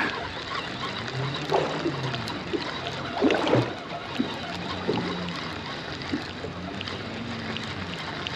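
Water sloshing and lapping against a small fishing boat's hull, over a steady rush of wind and sea noise, with a few short splashy knocks.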